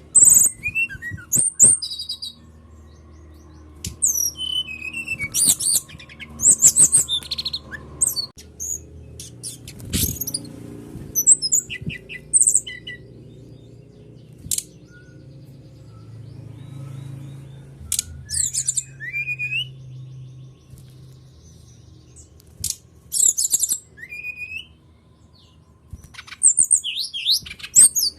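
Brown-chested jungle flycatcher (sikatan rimba dada coklat) singing in bursts of quick high chirps, trills and short whistles with brief pauses between, played as a lure song to prompt other birds to sing.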